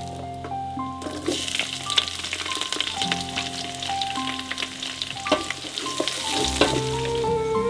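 Food sizzling as it fries in hot oil, the sizzle swelling about a second in, with a few light clicks. Soft background music with held notes plays underneath.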